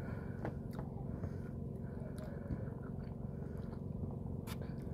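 Eating sounds: soft chewing and a few faint clicks over a steady low hum.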